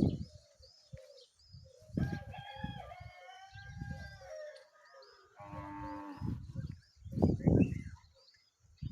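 Small birds chirping in a steady, quick repeating pattern, with a longer drawn-out animal call about two seconds in and another just past the middle, over loud, irregular low rumbles.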